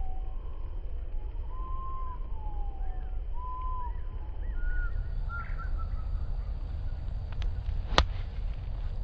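Birds calling with short whistled, arching notes over a steady wind rumble on the microphone, then a single sharp click about eight seconds in: a golf club striking the ball.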